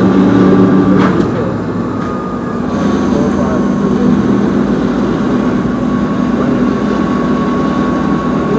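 Steady low hum of an idling vehicle engine, with a brief click about a second in.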